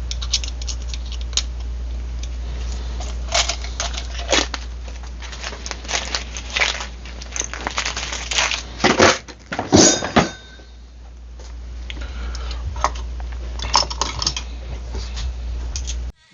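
Hand work at a workbench: irregular clicks, scrapes and rustles of tools and metal parts being handled, over a steady low hum that eases about ten seconds in and then builds again.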